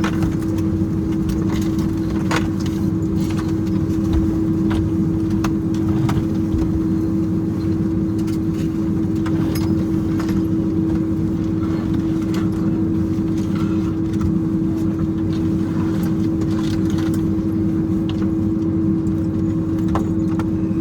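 Boeing 767-300ER airliner cabin noise after landing: a steady hum with one constant low tone over a rumbling drone, and scattered light clicks and rattles from the cabin.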